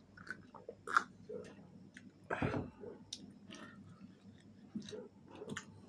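Close-miked chewing of fried chicken wings: a run of short, sharp, wet clicks and bites, with a louder one about a second in and a longer, fuller bite about two and a half seconds in.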